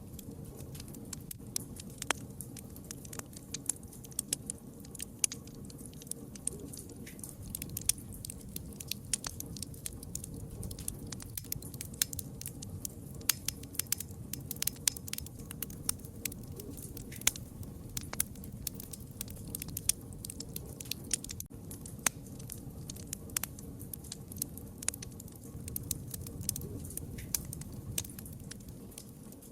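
Wood fire crackling: a dense run of irregular sharp pops and snaps, some louder than others, over a steady low rumble of burning.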